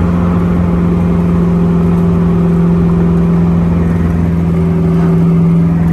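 V8 engine of a V8-swapped Pontiac Solstice running at a steady, unchanging speed, a constant drone.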